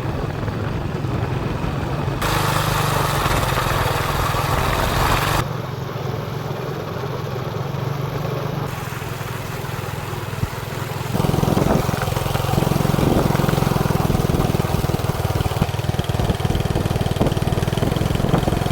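Small motorbike engine running steadily while riding, with a rushing noise of wind and road over it. The sound changes abruptly several times, where separate clips are joined.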